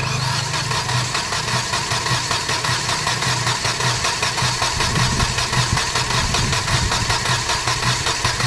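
Hyundai Xcent diesel engine being cranked on its starter motor, a steady pulsing churn that goes on for several seconds without the engine catching; air is still being bled out of the fuel system.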